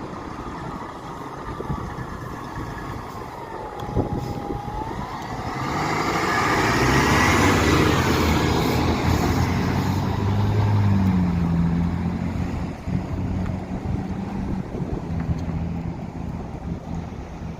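A fire engine drives past on an emergency run. Its siren wails, sliding slowly down and then up in pitch, and from about six seconds in a long, low horn sounds over the engine rumble. The sound is loudest in the middle, as the truck passes.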